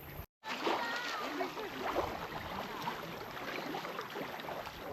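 Indistinct voices of other people at a lakeside beach, with some water splashing.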